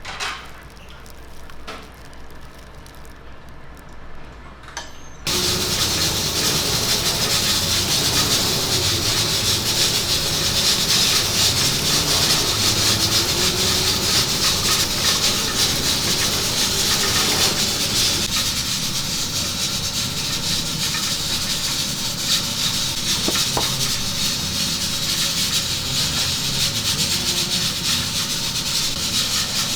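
Loud, steady sizzling hiss of food cooking in a commercial kitchen. It starts suddenly about five seconds in.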